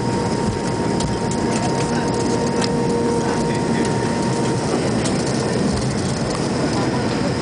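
Steady noise of a McDonnell Douglas MD-88 airliner's rear-mounted turbofan engines and airflow during takeoff, with a steady whine that fades out about four and a half seconds in.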